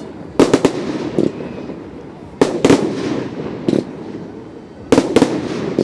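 Fireworks going off: sharp bangs in quick clusters of three or four, a new cluster about every two and a half seconds, with a crackling rumble between.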